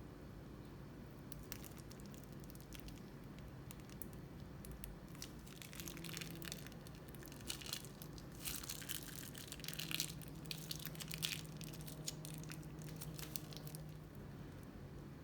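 Crunchy slime with plastic beads being squeezed and worked by hand: a run of small crackles and clicking pops, thickest around the middle.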